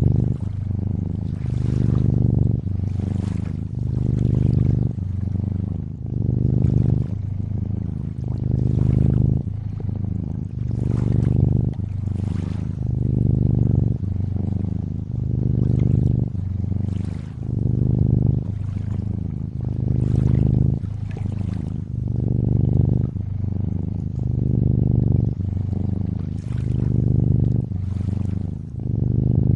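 Domestic cat purring steadily, the low rumble swelling and easing about every two seconds with its breathing, over gentle lapping and trickling water.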